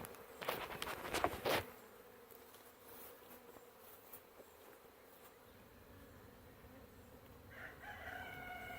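Honeybees buzzing faintly and steadily around an opened hive. There are a few sharp knocks and scrapes in the first second and a half.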